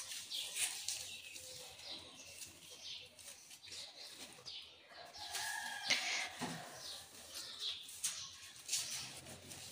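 Birds chirping repeatedly, with one longer call about five seconds in.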